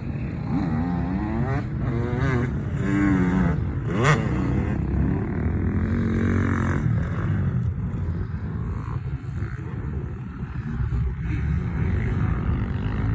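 Yamaha PW50's small two-stroke engine revving up and down, its pitch rising and falling several times in the first few seconds, then running more steadily. A sharp knock is heard about four seconds in.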